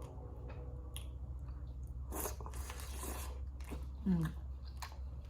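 Close-miked eating sounds: biting and chewing with sharp wet mouth clicks and a crunchier stretch partway through, then a short hummed "mm" near the end.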